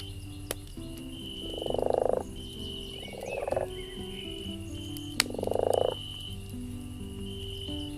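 A frog croaking three times: rapid rattling calls, each lasting about half a second, the first and last loudest. Soft sustained music plays underneath, with a sharp crackle from the campfire about half a second in.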